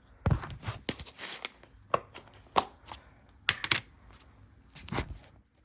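Hands handling a container of pet food: irregular clicks, knocks and rustling, with about five sharper knocks spread through it.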